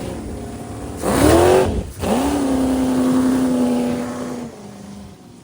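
An engine revved sharply about a second in, then revved again and held at a steady pitch for about two seconds before dropping back and fading.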